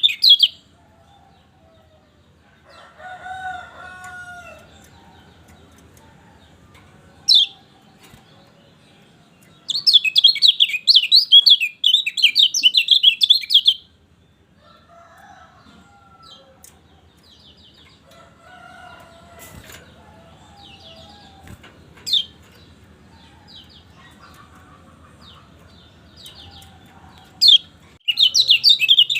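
Kecial kuning, a white-eye, singing in bursts of rapid high chirps: a few seconds of song near the middle and again near the end, with single sharp chirps between. Fainter, lower calls of other birds come in the gaps.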